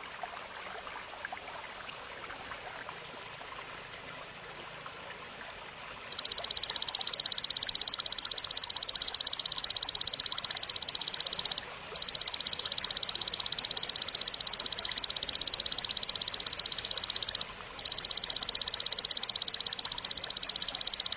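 Faint outdoor background hiss, then about six seconds in a loud, high, rapid buzzing trill of a belalang (grasshopper-type insect) starts and runs steadily, broken twice by brief pauses.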